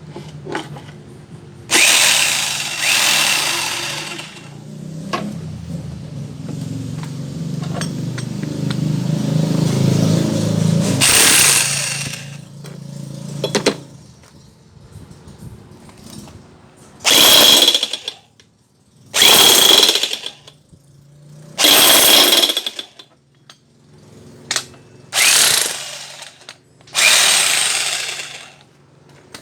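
A jackhammer rebuilt from parts of three broken units, test-run in short bursts: about seven hammering bursts of a second or two each, with a low motor hum building in the first half before it cuts off.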